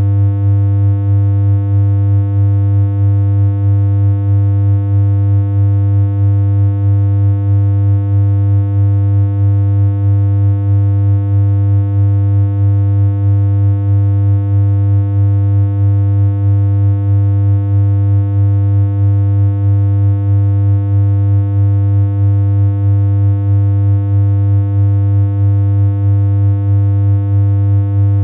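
Synthesized electronic hum: one low, steady tone with a buzzy edge from its overtones, held at an unchanging pitch.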